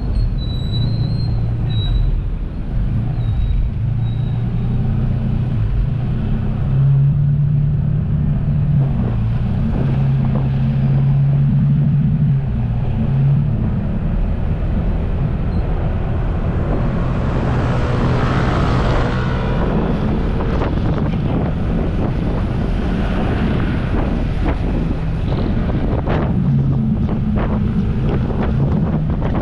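Jet ski engine running with a steady drone that steps up in pitch as the throttle changes. Wind buffets the microphone, and water rushes loudly midway through.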